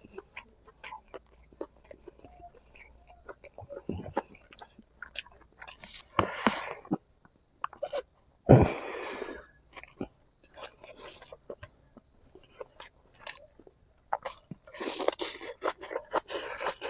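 Close-up chewing and lip-smacking of braised pig feet, with many short wet clicks and bites. About halfway through comes a louder, noisy burst lasting about a second.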